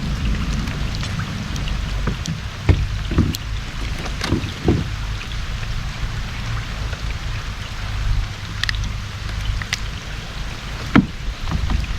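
Steady hiss of rain falling on the water and the kayak, over a low rumble, with a few sharp knocks and taps, the loudest near the end.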